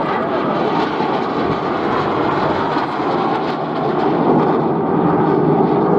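Jet aircraft flying past in display, a steady engine noise that grows slightly louder about four seconds in.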